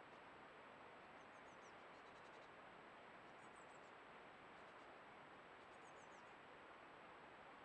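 Faint, very high-pitched bird chirps: three short phrases of a few quick descending notes, about two seconds apart, over a steady hiss.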